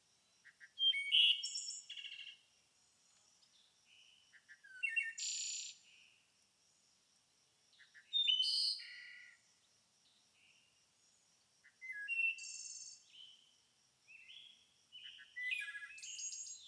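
A songbird singing short song phrases of quick notes and trills, repeated five times at intervals of three to four seconds. A faint steady high tone runs underneath.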